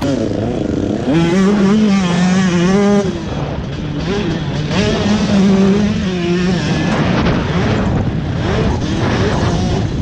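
Motocross dirt bike engine revving, its pitch rising and falling over and over with throttle changes, loudest in two spells about a second in and again around the middle.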